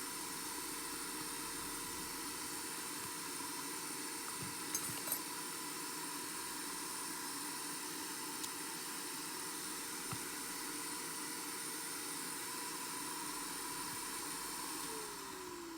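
Steady hiss of a small electric blower or fan motor with a constant hum, a few light clicks about five seconds in, then the motor is switched off near the end and its pitch falls as it winds down.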